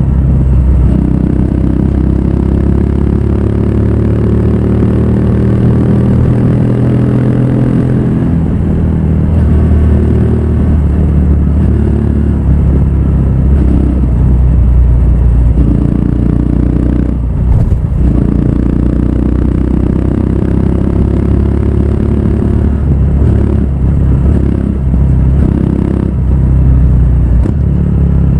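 Honda Grom's 125 cc single-cylinder four-stroke engine running through a Yoshimura full exhaust system under way. Its pitch climbs steadily for several seconds, breaks briefly a little past the middle, climbs again, then rises and falls with the throttle.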